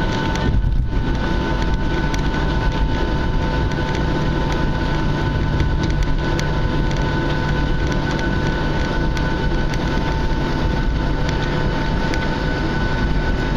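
Boeing 737's jet engines running steadily, heard inside the cabin: a constant loud rumble with a steady engine whine over it.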